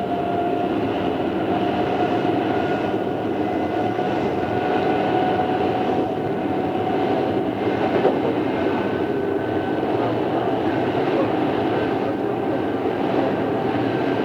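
Odakyu 2600 series electric train running, heard from on board: a steady rumble of wheels and running gear with a thin whine that rises slightly in pitch, and a single knock about eight seconds in. The hiss of an old cassette recording lies under it all.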